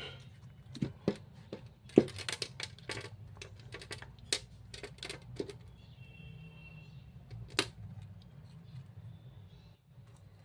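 Irregular sharp clicks and knocks of small hard objects being handled, clustered in the first half with the loudest about two seconds in and one more near the three-quarter mark, over a steady low hum.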